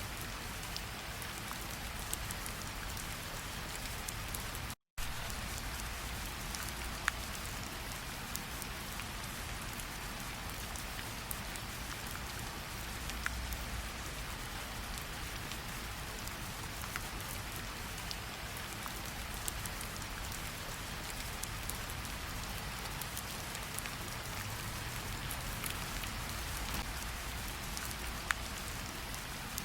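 Steady rainfall, with single raindrops ticking sharply here and there. The sound drops out completely for a split second about five seconds in.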